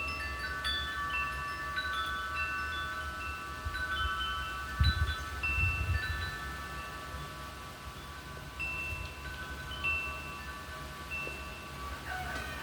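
Metal wind chimes ringing in the wind, tubes struck at irregular moments and ringing on in overlapping tones. Wind rumbles on the microphone, with stronger gusts about five and six seconds in.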